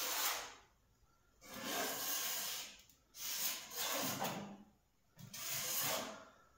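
Steel compass point scratching across a stainless steel sheet in four strokes of about a second each, scribing the circle for a cut-out.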